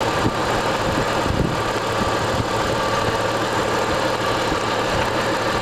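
Rover 75's 2.5-litre KV6 V6 engine idling steadily under the open bonnet, with a steady high whine over the engine note.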